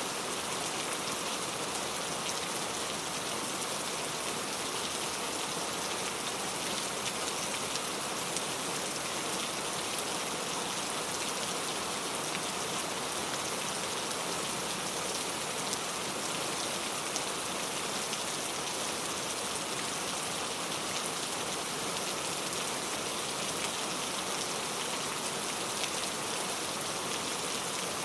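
Steady rain falling, with a dense, even hiss of drops.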